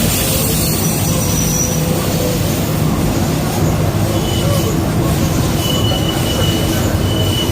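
Indian Railways train running on the track, a steady loud rumble of wheels on rails with thin high squeals from the wheels, several of them in the second half.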